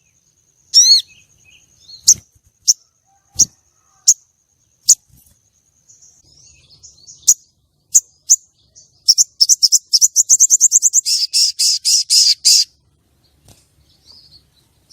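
Female sogon calling: a series of sharp, high single chirps spaced well under a second apart, then a fast trill of about a dozen notes a second that turns into a harsh rattle for several seconds before cutting off. This is the call used as a lure to stir male sogon into singing.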